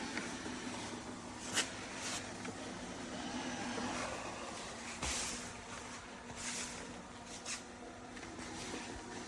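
Narwal Freo Z10 robot vacuum-mop running: a steady motor hum with brush and suction noise, and a few short clicks and knocks along the way.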